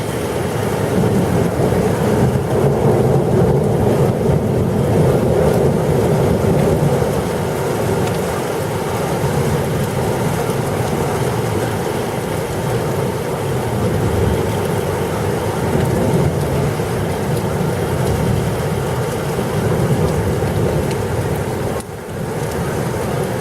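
Thunderstorm with heavy rain: a loud, steady rushing noise, weighted low, that wavers in level and dips briefly near the end.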